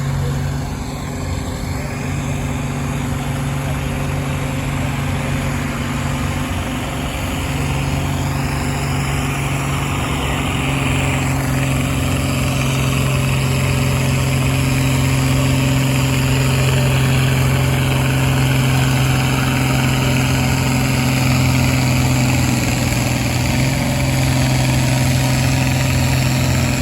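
Engine of a truck-and-tractor-pull competitor running steadily on one held note, getting gradually louder over the first half and then holding.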